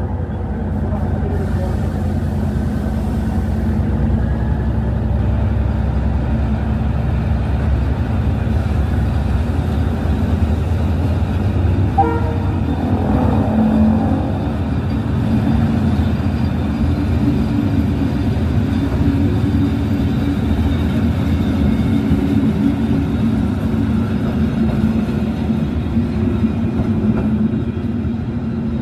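Abu Qir line passenger train's coaches rolling past along the platform: a steady low rumble of wheels on rail and running gear. There is a brief sharper clank about twelve seconds in.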